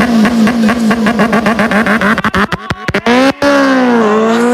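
Motorcycle engine through an aftermarket performance exhaust, running loud with a rapidly pulsing note, about six pulses a second. About two and a half seconds in come a string of sharp cracks and brief cut-outs, then a steady exhaust note that drops in pitch and climbs again as the engine revs back up.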